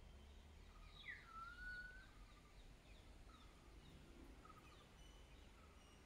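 Faint birdsong: scattered short chirps throughout, with one clearer call about a second in, a falling note that levels into a whistle held for about a second. A low steady rumble lies underneath.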